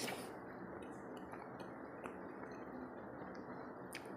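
A person chewing a mouthful of fried rice close to a clip-on microphone: soft, wet mouth clicks over a steady hiss. A sharper crisp bite into a raw onion slice comes near the end.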